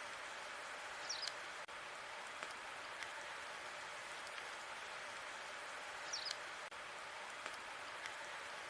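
Log fire crackling: a steady hiss with scattered small pops. A short high squeak sounds about a second in and again about six seconds in.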